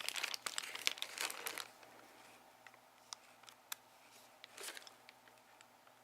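Crinkly plastic wrapper being handled and crumpled: dense crackling for the first second and a half, then a few scattered crackles and a short burst of crinkling near the end.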